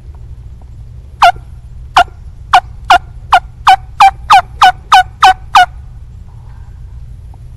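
Hen wild turkey yelping: a series of about twelve loud, sharp yelps, coming quicker as the series goes on. The yelps sound over a steady low background rumble.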